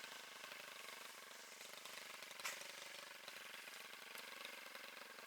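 An engine idling steadily and faintly, with a single sharp click about two and a half seconds in.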